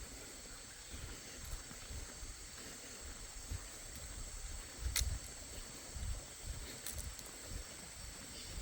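Outdoor forest ambience: a steady high-pitched insect drone, with low rumbles of wind on the microphone and a sharp click about five seconds in.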